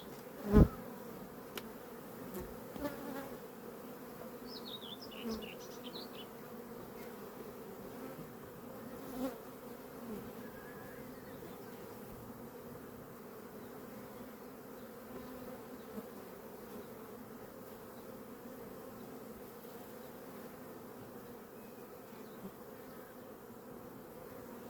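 Honeybee colony buzzing steadily around an open hive during a frame inspection, with one sharp knock about half a second in.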